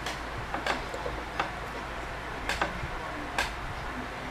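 Mouth sounds of someone chewing boiled potato: about six short, sharp smacks and clicks at uneven intervals, two of them close together a little past halfway, over a steady background hiss.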